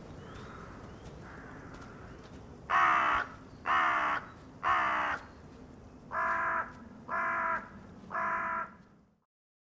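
A crow cawing six times, in two groups of three harsh, evenly spaced caws; the second three are a little lower and more clipped.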